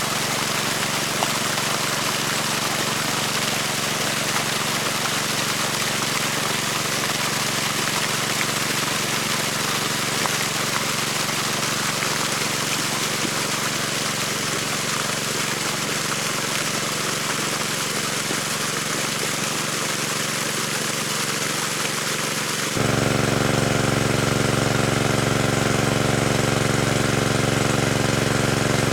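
A motor engine running steadily, a hum under an even hiss. About 23 s in it changes abruptly to a louder, deeper engine drone.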